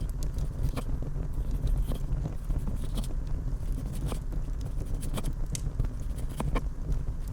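Low wind rumble on the microphone with irregular light clicks and scrapes from handling things at close range.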